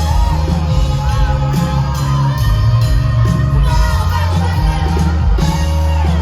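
Live country band playing loudly with heavy drums and bass under a female lead vocal singing.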